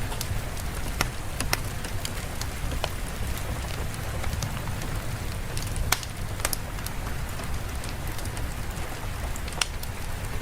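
Steady rain falling, an even hiss over a low rumble, with scattered sharp ticks and pops of individual drops or crackles.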